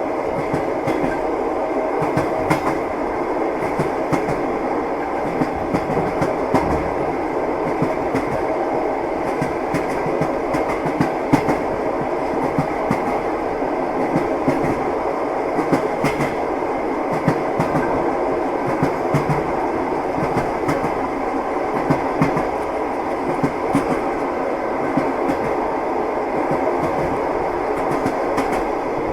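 Moving passenger train heard from inside the carriage: a steady running rumble with scattered sharp clicks and knocks of the wheels on the rail joints.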